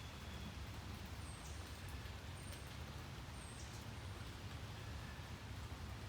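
Steady rain, an even hiss over a low rumble, with a few faint, short, high chirps heard about four times.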